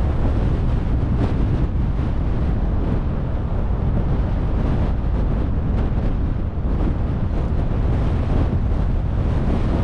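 Car driving: steady, even road and wind noise.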